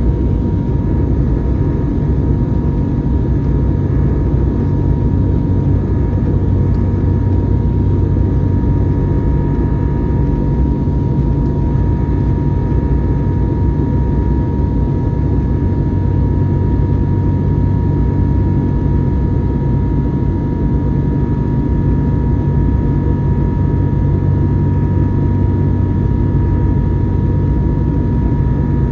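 Airbus A321neo's Pratt & Whitney PW1100G geared-turbofan engines and rushing air, heard from inside the cabin: a steady, deep rumble with a constant whine-like tone running over it.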